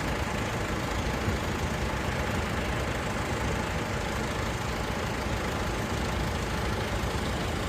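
Tractor engines idling steadily while the tractors wait to move off in convoy.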